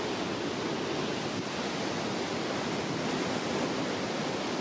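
High Falls waterfall: a steady, unbroken rush of falling water.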